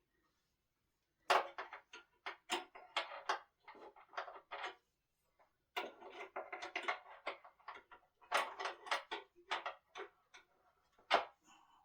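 Rapid clicks, knocks and rattles of hands and tools working on wooden table parts during assembly, in two busy runs, with one sharp knock near the end the loudest.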